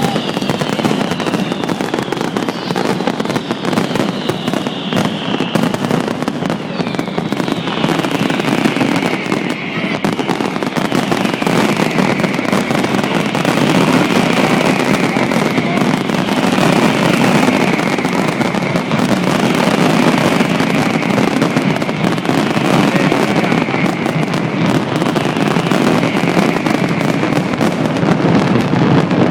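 A fireworks display at full intensity: a dense, continuous crackle of shell bursts and bangs, with high whistles falling in pitch about every two seconds.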